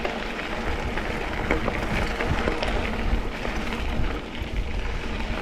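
Mountain bike rolling downhill on a dirt double-track trail: a steady noise of tyres on dirt and gravel, with many small scattered clicks and rattles and a low rumble.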